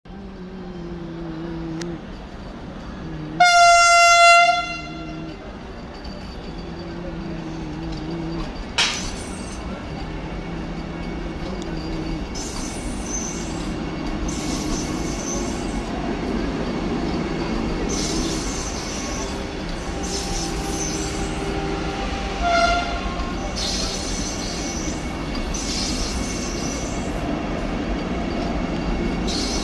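Vande Bharat Express train running, with one loud horn blast about three seconds in lasting just over a second, and a short, fainter horn toot about twenty-two seconds in. The running rumble swells and is overlaid by a hiss that comes and goes every couple of seconds.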